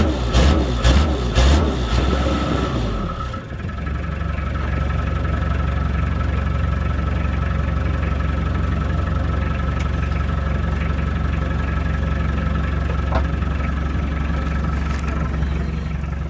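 A 2005 Mitsubishi Triton's four-cylinder diesel engine runs in rhythmic surges about twice a second for the first few seconds. It then dips briefly and settles into a steady idle. This is a cold start with non-working glow plugs.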